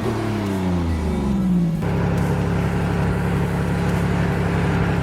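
Nissan 300ZX's freshly swapped VG30 V6 engine being revved, its pitch rising and falling and then dropping back, settling into a steady idle about two seconds in.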